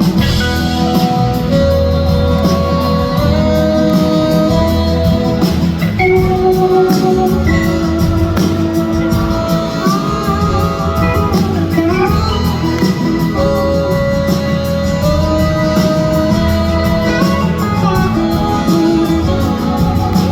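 Live band playing a slow instrumental intro: a gliding slide-guitar melody over bass, keys and drums.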